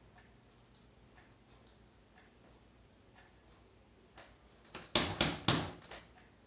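Faint light ticking, then three sharp knocks in quick succession about five seconds in, from handling the reassembled plastic keyboard case and tools on the workbench.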